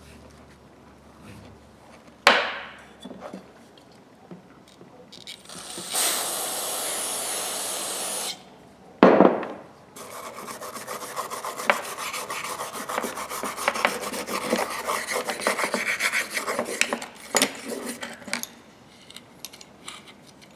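Rusty steel locking pliers being scrubbed and rubbed by hand to clean off rust, a dense scraping with many small ticks for about eight seconds in the second half. Before that come a sharp knock, a steady hiss of about two seconds that cuts off suddenly, and another knock.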